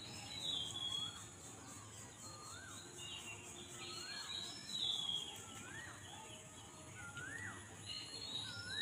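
Birds calling: a short note that rises and drops back, repeated about once a second, with thinner, higher chirps over it and faint outdoor background noise.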